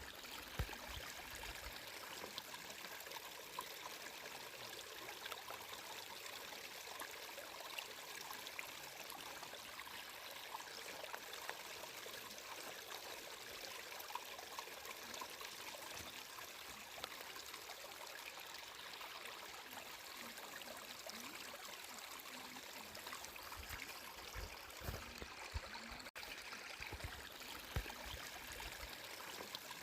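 Stream of water flowing and trickling steadily, a faint even splashing with small scattered drips, briefly cutting out for a moment near the end.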